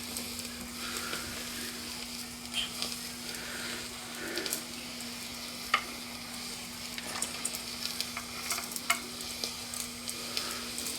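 Electrically heated boiler of an Empire B43 toy live steam engine heating up: water sizzling inside, with scattered small ticks and pops over a steady low hum.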